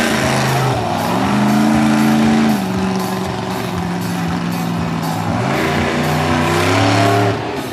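Monster truck engine revving hard, holding high revs, then dropping off about two and a half seconds in; it climbs again and falls off once more near the end.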